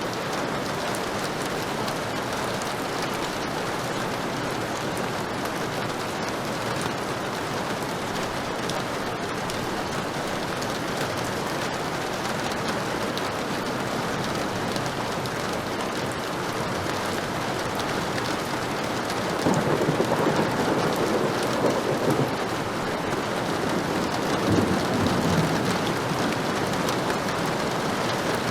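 Heavy rain falling steadily, with a roll of thunder about two-thirds of the way in and a smaller rumble a few seconds later.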